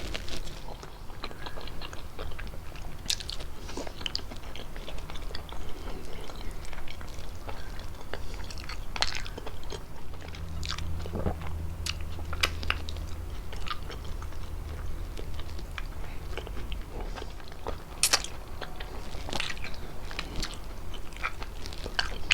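Close-miked chewing and biting of fettuccine with chicken: irregular mouth clicks and smacks, some crisper than others, over a faint steady low hum.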